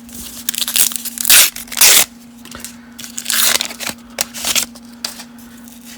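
1990 Upper Deck baseball card pack wrapper being torn open by hand: crinkling and ripping in a run of short bursts, the two loudest about one and a half and two seconds in.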